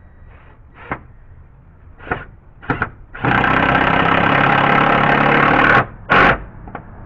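Cordless drill driving a screw into deck wood: a few light knocks, then the motor runs steadily at full speed for about two and a half seconds and stops sharply, with one short final burst just after.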